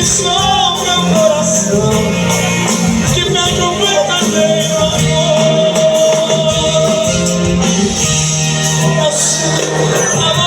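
Live sertanejo band music with a steady beat and a melody line, which holds one long note through the middle.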